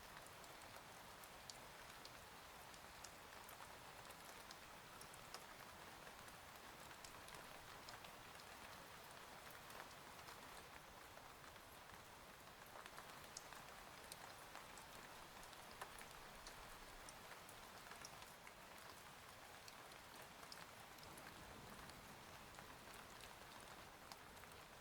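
Faint, steady rain, with scattered drops ticking.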